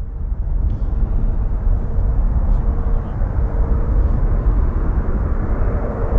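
Aircraft engine noise: a steady rumble with a faint steady whine, heavily mixed with wind buffeting the microphone.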